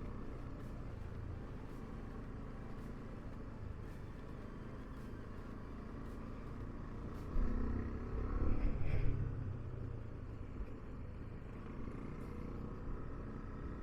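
Motorcycle riding uphill, heard from the rider's own bike: a steady engine and road rumble that grows louder for a couple of seconds a little past halfway.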